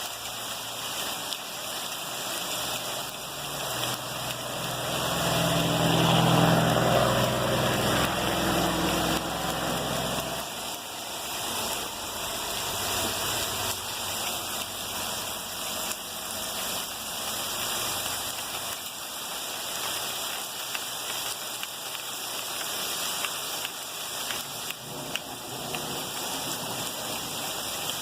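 Heavy rain falling steadily, with a patter of drops. An engine passes in the first ten seconds, swelling to its loudest about six seconds in and then fading away.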